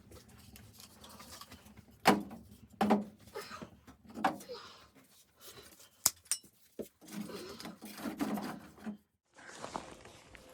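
A series of irregular knocks and short thuds, the sharpest about two, three and six seconds in, with a stretch of rustling handling sounds shortly before a brief dropout near the end.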